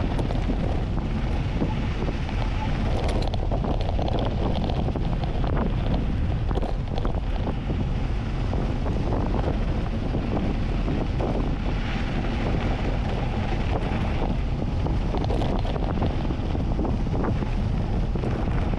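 Heavy wind buffeting on an action camera's microphone during a fast mountain-bike descent, with scattered knocks and rattles throughout.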